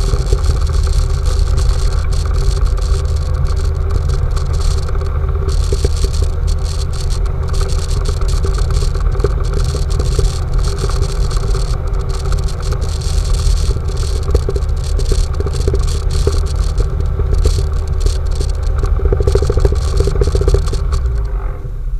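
An off-road vehicle's engine running steadily while driving, with rattling and knocking from the vehicle over rough snowy ground.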